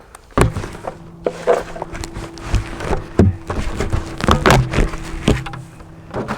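Irregular knocks and thumps of footsteps and beekeeping gear being handled, over a steady low hum that starts about half a second in.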